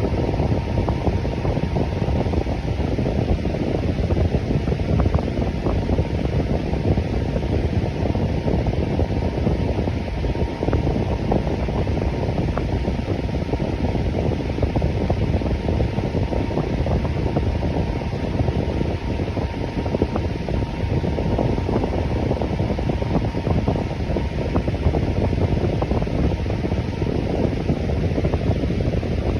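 Electric fan running steadily, an even rush of moving air with most of its weight low down and a faint steady hum-like tone above it.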